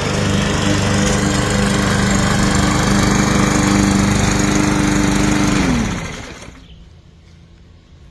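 Gas lawn mower engine running steadily, then shut off about six seconds in, its pitch falling as it winds down to a stop.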